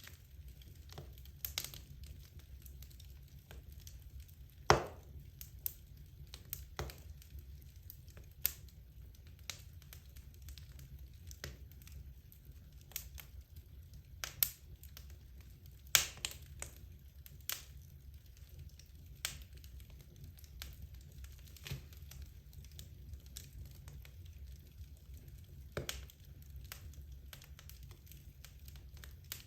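Wood logs burning in a fireplace, crackling with irregular sharp pops, a few louder snaps standing out, over a low steady rumble.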